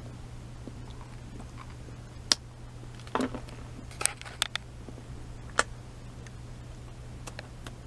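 Person chewing Anisette sponge bread: a few scattered short clicks and mouth sounds, with a small cluster about four seconds in, over a steady low hum.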